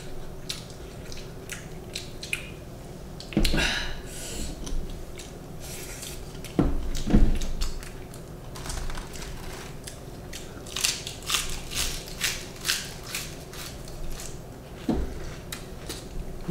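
Close-up sounds of people eating: chewing and crunching food, with a dense run of crisp crackles about 11 to 13.5 s in, and a few low thumps along the way, the loudest about 7 s in.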